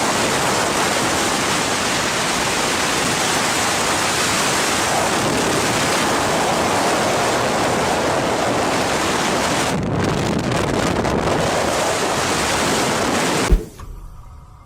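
Strong wind blowing over the microphone, a steady loud rush. Near the end it cuts off abruptly with a short knock.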